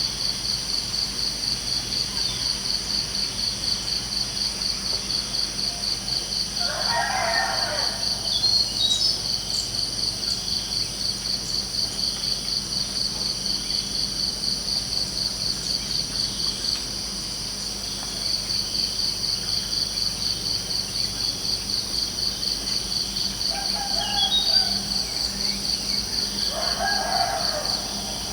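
Crickets chirping in a steady, fast-pulsing high trill that breaks off briefly around the middle. A rooster crows twice, about seven seconds in and near the end, and a few short bird chirps sound between.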